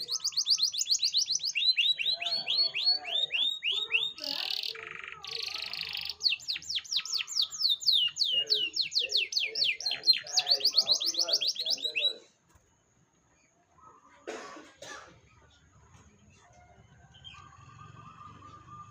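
Domestic canary singing fast rolling trills of quick falling whistled notes, changing from one trill to the next, and stopping abruptly about twelve seconds in. After a short gap come two brief sounds and a faint held tone.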